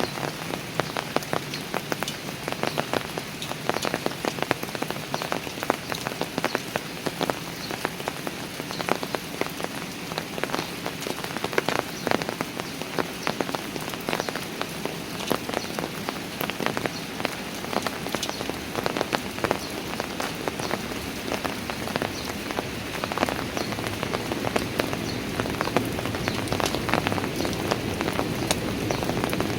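Steady rain falling on park stairs, many sharp single drop hits ticking through an even wash of rainfall. Over the last few seconds a deeper rush grows slightly louder.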